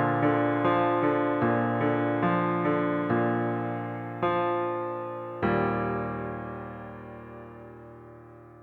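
Soft piano background music playing a gentle line of notes, then a final chord about five seconds in that rings on and fades away.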